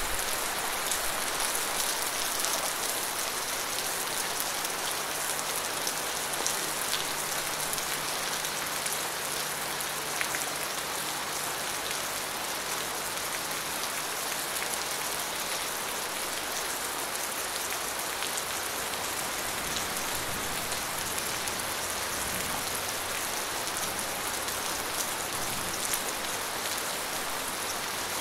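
Steady rain falling: a dense, even hiss of drops, with single drops ticking out now and then.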